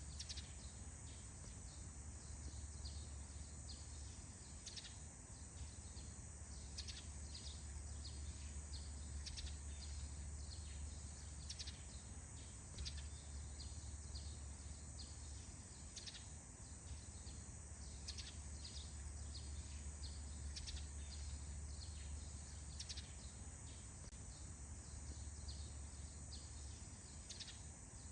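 Faint morning forest ambience: birds giving short, high chirps that fall in pitch, scattered all through, over a steady high hiss and a low rumble.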